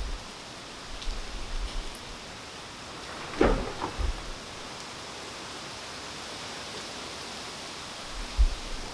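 Steady rain falling, an even hiss of drops, with a louder drop-like knock about three and a half seconds in and a low thud near the end.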